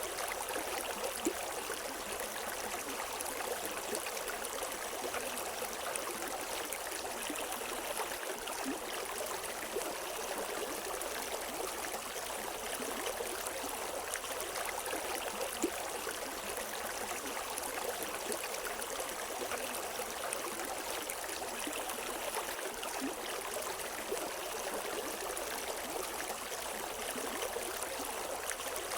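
River water flowing and splashing over rocks in a steady rush, with small splashes here and there and no birds.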